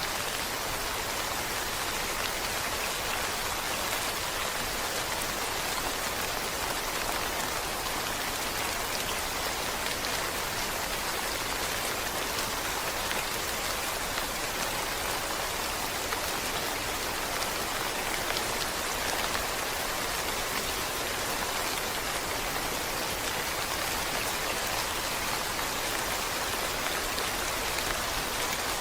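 Steady rain falling, an even hiss with many fine drops pattering on a surface.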